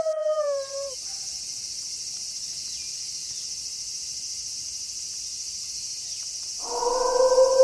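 A wolf howl sliding down in pitch and dying away in the first second, over a steady high-pitched chorus of night insects. Near the end another wolf howl begins, a long low note held steady.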